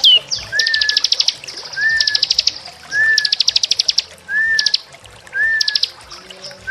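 Small songbird singing a repeated phrase: a short whistle that rises and then levels off, followed by a fast, high trill, about once a second.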